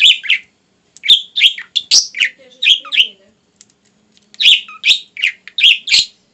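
A bird chirping repeatedly in short, sharp, loud notes, in quick clusters with brief pauses between, mixed with a few sharp clicks or taps.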